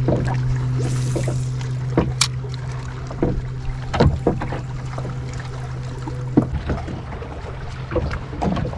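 Kayak paddling on a lake: irregular knocks and splashes of the paddle against the water and hull. Under it runs a steady low hum that fades out near the end.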